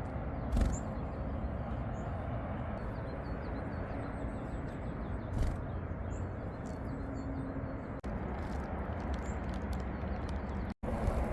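Small songbirds giving faint, scattered chirps outdoors over a steady low rush of background noise, with the sound cutting out briefly near the end.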